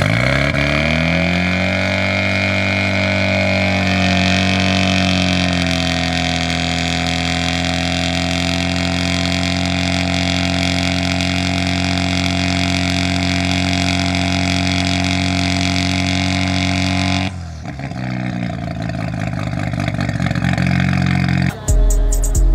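Car engine rising in revs over the first few seconds, then running at a steady pitch. About three-quarters of the way in it cuts abruptly to a lower, quieter steady engine note, and near the end a deep bass comes in.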